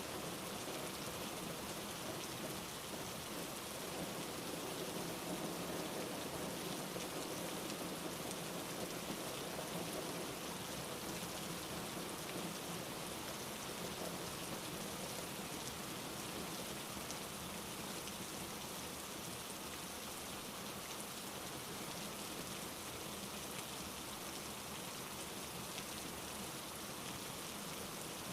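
Steady rain falling on a surface, a continuous hiss with fine drop patter.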